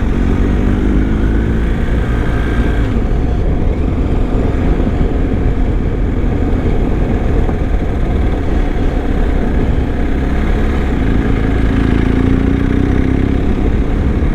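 Adventure motorcycle's engine running while riding, over a steady low rumble; the engine pitch rises gently near the start and again toward the end.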